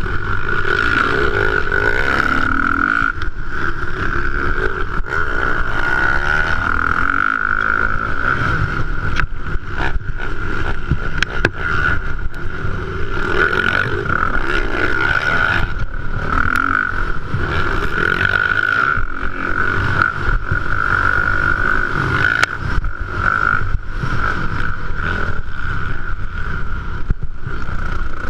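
450-class motocross bike engine running hard under race conditions, with a steady high engine note, a low rumble beneath and frequent short knocks and buffeting.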